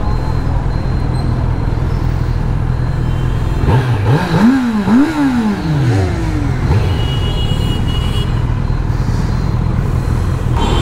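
Kawasaki Z900's inline-four idling, then revved twice in quick succession about four seconds in, the pitch rising and falling each time before it drops back to idle.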